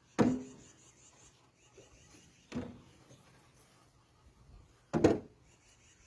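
Three sharp knocks about two and a half seconds apart, the last one a quick double knock.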